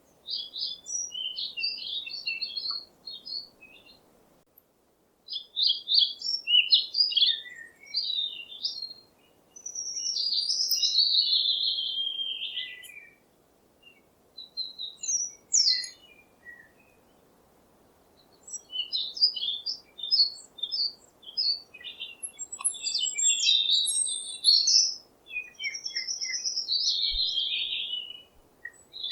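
Small birds chirping and singing high-pitched, quick twittering phrases that come in spells, with brief pauses between them, over a faint steady background hiss.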